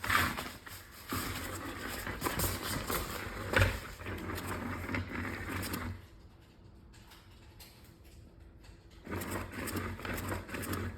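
Small motorized cat toy whirring and rattling as its motor strains to move while the cat holds it down. It goes quiet for about three seconds past the middle, then starts up again.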